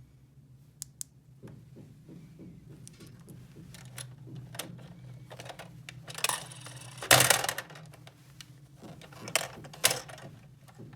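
Small plastic toy pieces being handled: scattered clicks and a run of light rapid tapping, then two louder scraping rustles a little past the middle and two sharp clicks near the end, over a steady low hum.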